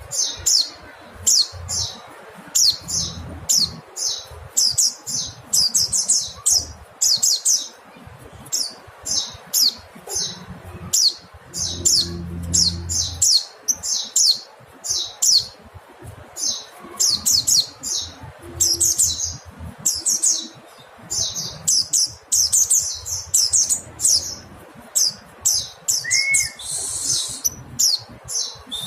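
Mountain white-eye (pleci montanus) calling: quick runs of short, high-pitched chirps, several notes a second, broken by brief pauses.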